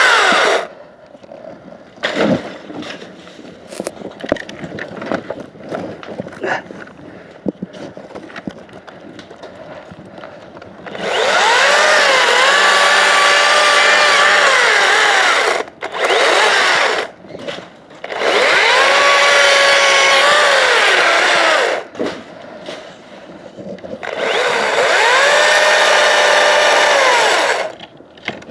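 Makita 18V cordless chainsaw cutting paulownia wood in three long runs of a few seconds each, with two short blips between the first and second. The motor's whine drops in pitch as the chain bites into the wood and rises again as it eases off. Before the first cut there are scattered knocks and rustling.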